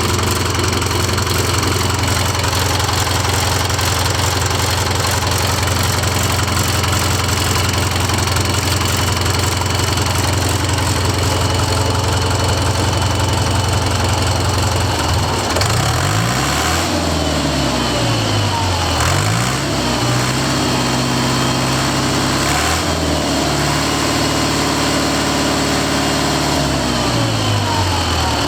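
Deutz F4L912 four-cylinder air-cooled diesel engine running steadily at idle, then revved up and down several times from about halfway through.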